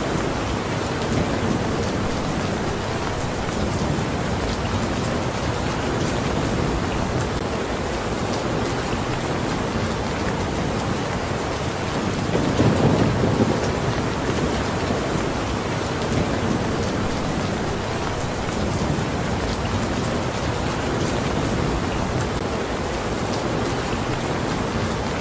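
Steady, heavy rain falling, an even hiss of drops. A brief low rumble swells up about halfway through.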